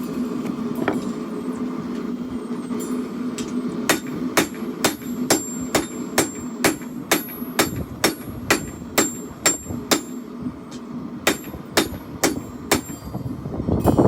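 Hand hammer striking steel on an anvil while forging a blade, a steady series of ringing blows about two a second that start a few seconds in and stop near the end, over a continuous low roar.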